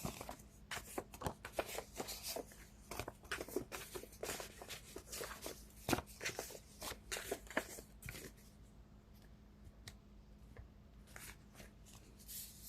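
Tarot cards being shuffled and handled: a dense run of quick paper flicks and rustles that thins out to a few scattered clicks after about eight seconds.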